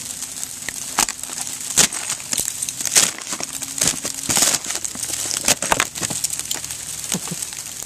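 Heavy sleet: ice pellets hissing and ticking down, with irregular sharper crackles and cracks every second or so.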